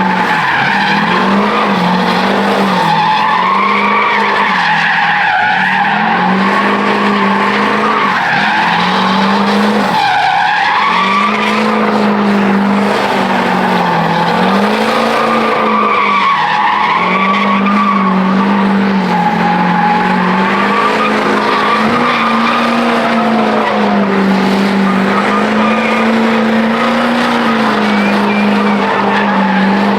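Truck engine held at high revs through a burnout, its pitch rising and dipping every couple of seconds as the throttle is worked, over the noise of the spinning rear tires.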